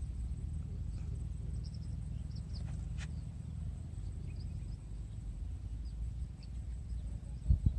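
Outdoor ambience: a steady low rumble with faint high chirps of small birds now and then, a sharp click about three seconds in, and low thumps just before the end.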